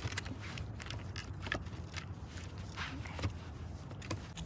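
Sticks and twigs being handled and laid on a small campfire: scattered light clicks and snaps of wood.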